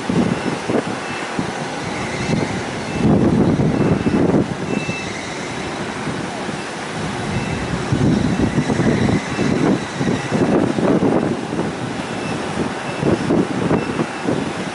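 Strong wind buffeting the microphone in uneven gusts, loudest a few seconds in and again near the middle. Behind it, a faint high beep repeats about once a second.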